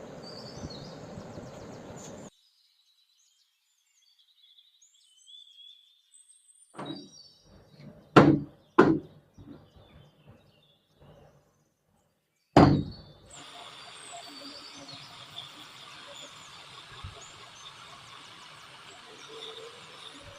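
Four sharp knocks, two close together near the middle and one more a few seconds later, with faint bird chirps between them and steady outdoor background noise before and after.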